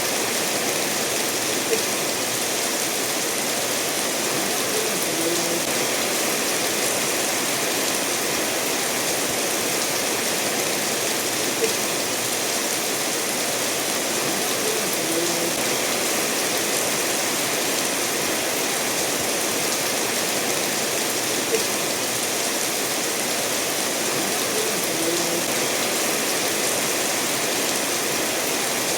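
Rain falling together with a stream running over stones: a steady, even hiss of water. A single faint tick stands out about every ten seconds.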